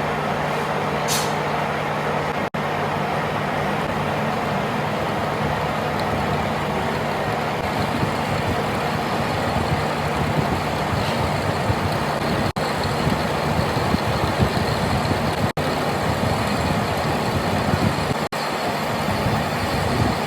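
Workshop machinery running steadily, with a low hum through the first half and a few abrupt brief gaps.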